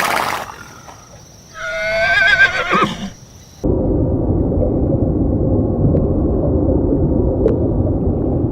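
Horse neighing: a short noisy burst, then a wavering whinny about a second and a half long. About three and a half seconds in, it cuts to a steady low rushing noise.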